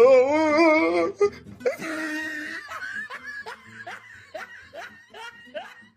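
Meme laugh sound effect: a voice laughing in a run of short 'ha' bursts, a few per second, that fades out near the end. It follows a wavering drawn-out 'no' that ends about a second in.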